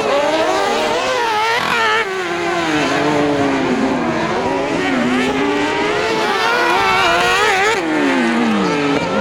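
Engines of several kart cross racing buggies running hard together, their pitch rising and falling as the drivers accelerate and lift through the corners.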